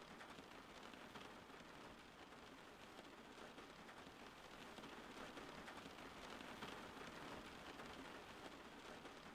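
Steady, soft rain falling, an even patter of many small drops.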